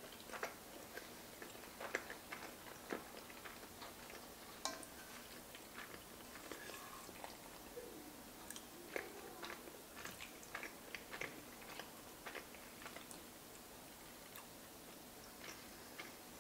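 Faint close-miked chewing of soft pasta, with irregular small wet mouth clicks and smacks. A few sharper clicks come from the fork working in the pan.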